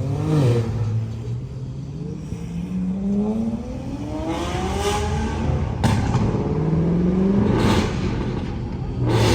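A car engine accelerating away, its pitch rising, dropping at a gear change and rising again, with a sharp click about six seconds in.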